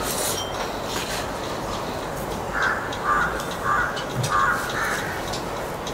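A bird calling five times in a row, short harsh calls about half a second apart, starting about two and a half seconds in, over a steady background hiss with a few faint clicks.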